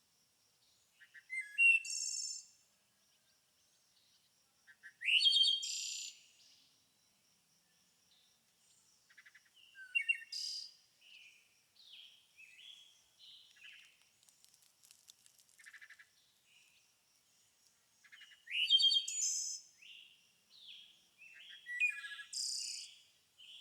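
Songbirds singing and calling: loud, bright chirpy phrases every few seconds, with a run of short, soft, falling notes in between.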